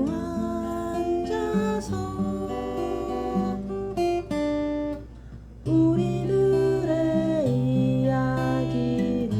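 Seagull acoustic guitar playing chords in C. The playing breaks off briefly about five seconds in, then starts again.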